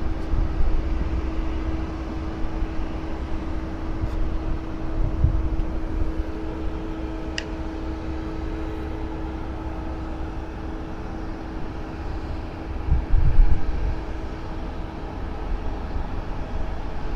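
Airport ground noise: a steady low rumble with a constant machine hum, a faint click about halfway through and a short low swell in the rumble near the end.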